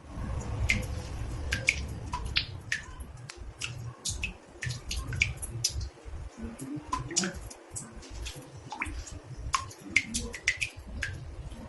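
Water drops falling into a bathtub: irregular drip plinks, about three a second, some with a short pitch slide, over a low steady rumble.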